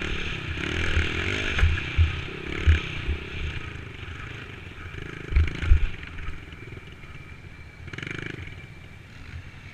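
Dirt bike engine running during a ride, with several short low thumps, the loudest of them about five and a half seconds in.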